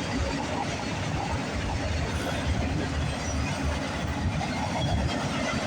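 CN freight train's cars rolling past, a steady rumble of wheels on the rails.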